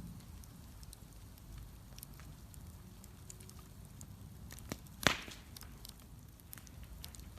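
Wood bonfire crackling: scattered small sharp crackles over a low steady rumble of the flames, with one loud pop about five seconds in.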